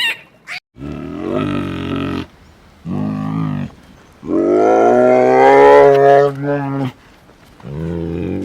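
A large animal calling: four deep, drawn-out calls, the third the longest and loudest.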